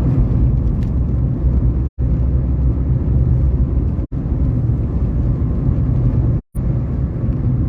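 Steady low rumble of a car travelling on the road, broken by three brief gaps where the sound drops out completely.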